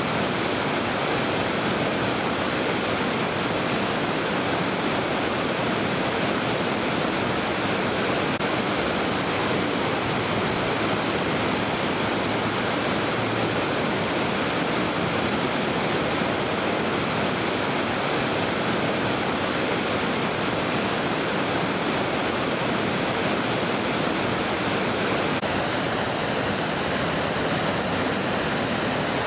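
Mountain river rushing over rocks: a steady, even roar of turbulent water without change.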